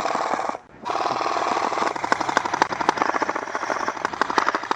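Airsoft guns firing on full auto: a fast, even rattle of shots in long bursts, with a brief break about half a second in.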